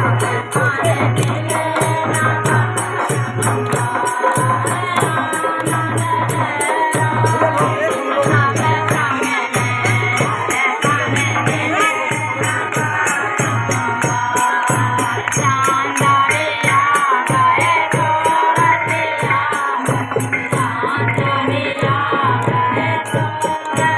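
Folk-style group singing of a voter-awareness song, with a quick, steady rattling percussion beat.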